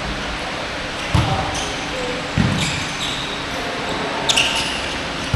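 Basketball bouncing on an indoor court floor during play, with two thuds about a second and two and a half seconds in and a brief high squeak near the end, in a large echoing hall.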